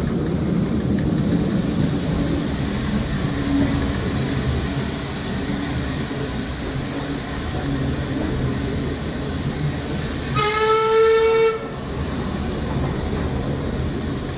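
Heritage train running, heard from inside a passenger carriage: a steady rumble with rail and wheel noise. About ten seconds in, the train sounds one pitched warning blast lasting about a second.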